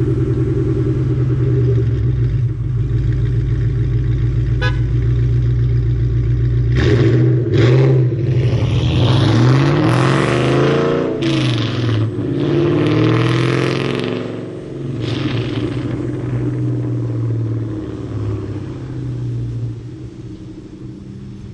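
1999 Ford Mustang SVT Cobra's V8 through a Borla Attak cat-back exhaust, idling steadily, then revved several times from about seven seconds in and settling back to idle.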